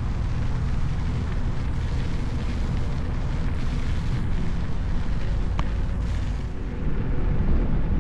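Wind buffeting the camera microphone while riding an electric unicycle: a steady low rumble.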